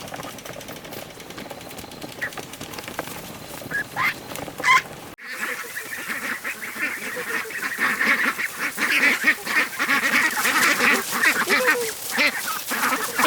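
A flock of ducks quacking, many calls overlapping. A few scattered calls at first, then after an abrupt cut about five seconds in, a dense, continuous chorus of quacks.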